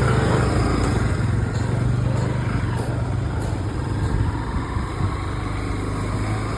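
Motorcycle engine running steadily on the move, with rushing wind and road noise on the phone's microphone.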